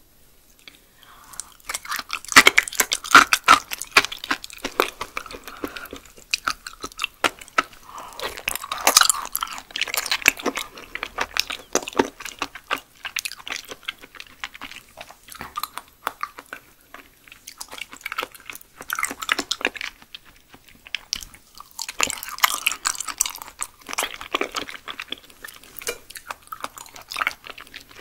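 Close-up chewing and mouth sounds of someone eating raw yellow stingray liver, with many quick clicks in bursts separated by short pauses.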